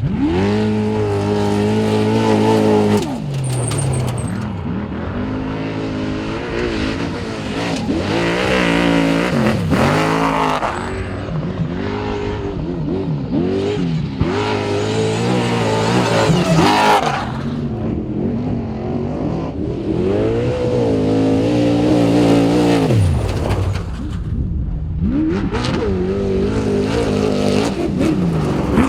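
Several Trophy Truck V8 engines in turn, each revving hard with its pitch climbing and then dropping sharply, over and over, as the trucks run past, with bursts of rushing tyre and dirt noise.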